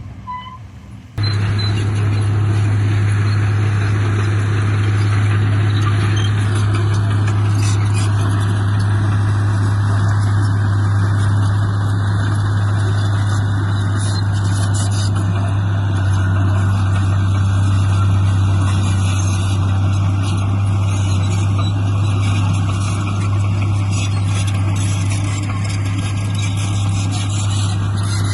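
Heavy construction machine's diesel engine running steadily under load, with a strong constant low hum. It cuts in abruptly about a second in.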